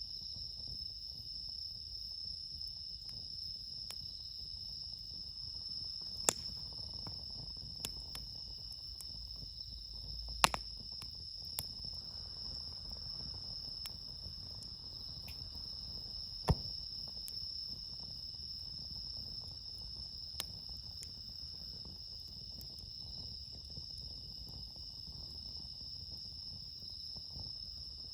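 A steady chorus of crickets, among them bell crickets (suzumushi), singing without a break. A campfire crackles underneath, with a handful of sharp pops, the loudest about a third of the way in and again a little past halfway.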